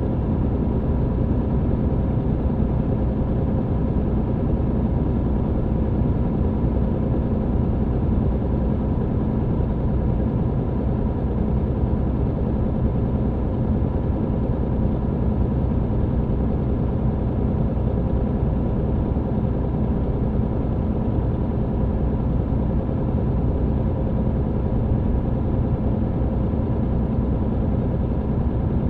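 MAN TGX truck's diesel engine running steadily with road noise, heard inside the cab.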